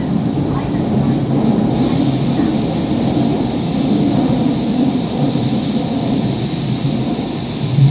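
MTR Tseung Kwan O line K-Train running on the rails with a steady low rumble; about two seconds in a steady high-pitched squeal sets in and holds.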